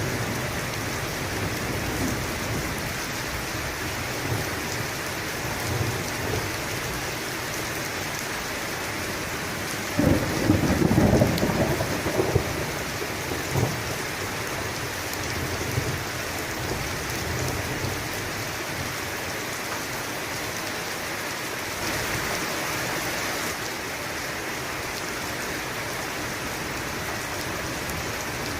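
Steady rain with a clap of thunder rumbling about ten seconds in, for two to three seconds; fainter low rumbles come and go before it.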